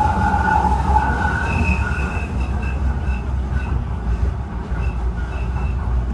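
Docklands Light Railway B2K light-rail train running between stations, heard from on board: a steady low rumble with intermittent high-pitched wheel squeal that comes and goes in short bursts.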